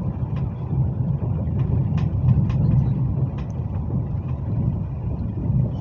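Cabin noise of a Hyundai Rotem HRCS2 electric train running at speed, heard from inside the passenger car: a steady low rumble with a few faint scattered clicks.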